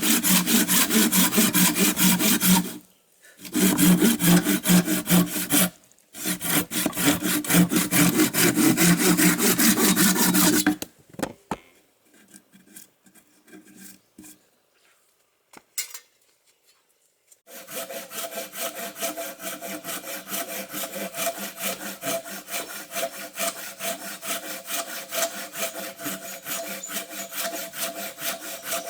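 Wood being sawn by hand in quick, even strokes: three loud runs broken by short pauses, then several seconds of near quiet, then softer sawing resumes with a steady tone beneath it.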